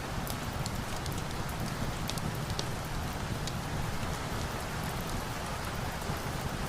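Steady rain falling, a dense even hiss with a low rumble underneath, mixed with a fireplace's scattered sharp crackles.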